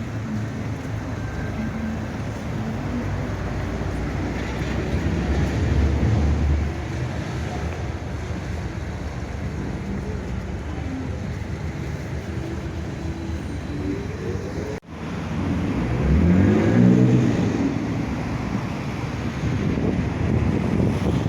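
City street traffic: vehicles running past with a steady low rumble. After a break about 15 s in, a passing vehicle's motor whine rises and falls in pitch.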